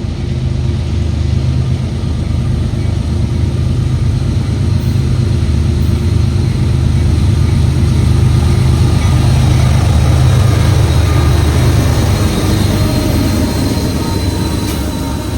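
Diesel-hauled train running past at close range: a steady low engine rumble and the rolling noise of the cars, growing louder to a peak in the middle and easing off near the end, with a faint high squeal near the end.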